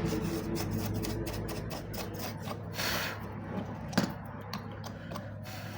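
Faint handling and tapping sounds from bench work on a circuit board, with a brief scrape near the middle and one sharp click about four seconds in, over a steady low hum.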